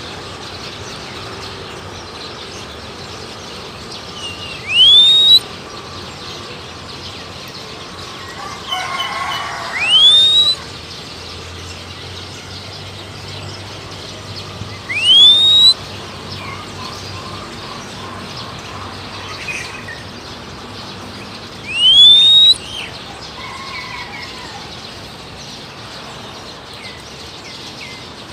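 A person whistling a short rising note four times, several seconds apart, to call a wild Oriental magpie-robin. Fainter bird calls sound in between.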